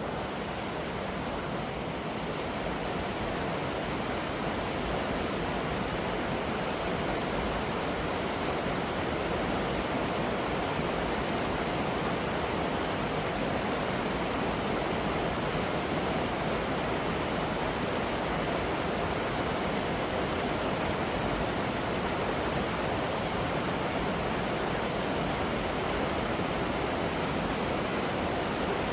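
Steady rushing of a waterfall, an even wash of falling water that holds constant throughout.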